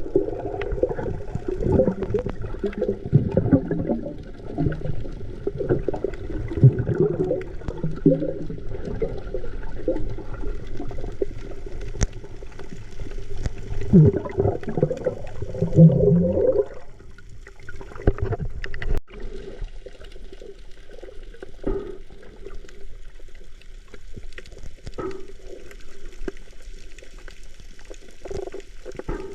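Water sloshing and gurgling in choppy, uneven surges, dropping suddenly to a quieter, lighter splashing a little past halfway.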